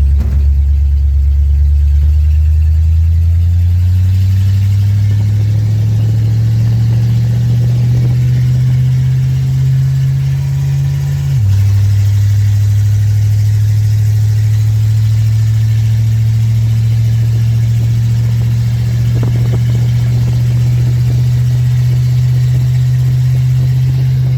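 1946 Dodge pickup truck engine pulling under acceleration, its pitch rising for several seconds, then dropping suddenly at a gear change about halfway through. After the shift it runs steadily.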